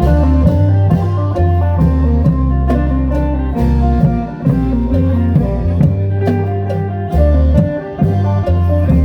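Isan folk music led by a phin, the plucked Thai-Lao lute, over a running bass line and steady drum beats: a lively, danceable tune.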